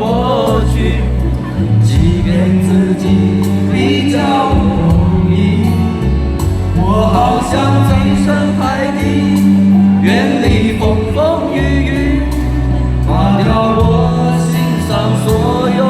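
Live pop-rock band music with singing over a steady bass line and drums.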